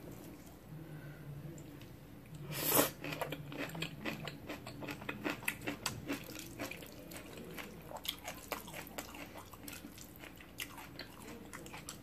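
Close-miked chewing of jajangmyeon noodles in black bean sauce: quick, wet mouth clicks and smacks. About three seconds in there is one louder, noisy mouth sound, like a slurp.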